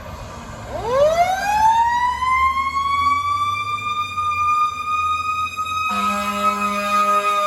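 A fire engine's siren winds up from a low growl to a high wail over about two seconds, then holds. About six seconds in, a steady horn blast cuts in abruptly over it, and the siren starts to ease down near the end. A truck engine rumbles underneath.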